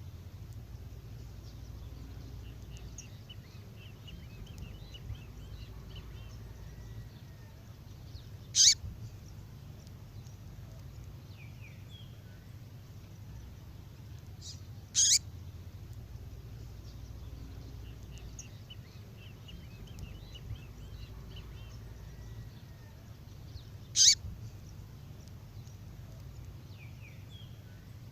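Recorded call of a female songbird: single short, sharp, high-pitched calls about 8.5, 15 and 24 seconds in, with faint chattering twitters between them. The call sequence repeats as a loop.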